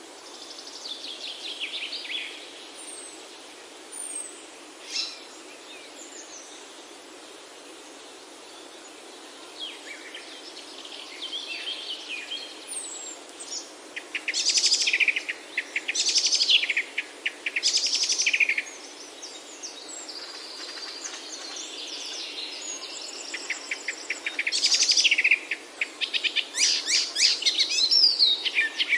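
Songbirds singing over a steady background hiss: scattered chirps at first, then rapid trilled phrases that come thicker and louder in the second half.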